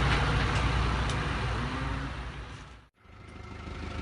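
Heavy diesel engine running with a low rumble, which fades out to silence just before three seconds in and then fades back in.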